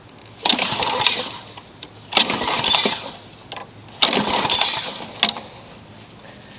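Walk-behind lawnmower's Briggs & Stratton flathead engine being pull-started: three pulls of the recoil cord, each cranking it for about a second without the engine catching and running.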